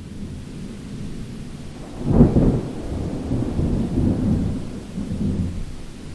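Thunder rumbling over steady rain: the low rumble builds, cracks loudest about two seconds in, then rolls on in waves and fades near the end.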